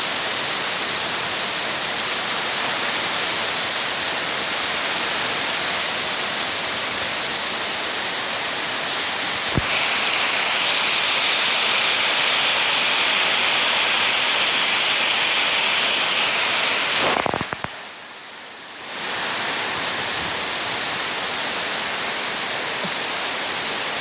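Heavy storm rain pouring down in a steady hiss. About ten seconds in it grows louder and sharper. A little past seventeen seconds it drops away abruptly for about two seconds, then comes back.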